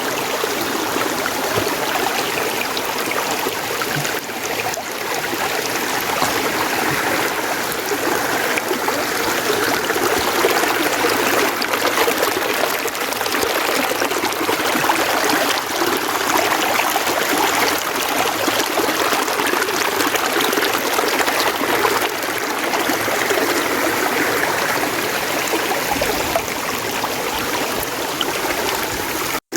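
Mountain stream flowing, a steady, unbroken rush of running water.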